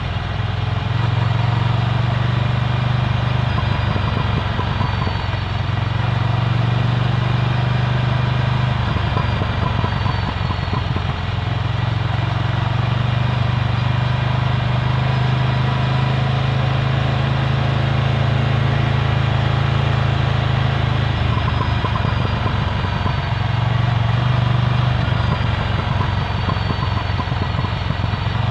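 Ducati Scrambler Full Throttle's air-cooled 803 cc L-twin running through a Termignoni exhaust, ridden at a fairly steady engine speed with small rises and falls in pitch.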